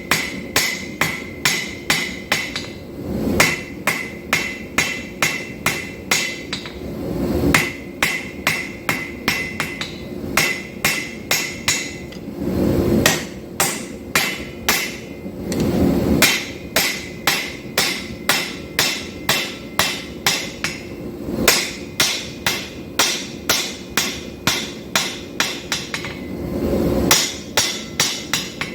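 Steady run of hammer blows, about two to three a second, on a hot 5160 steel bar on an anvil, drawing out the blank for an integral knife. Each strike rings, and there are a few short pauses between series.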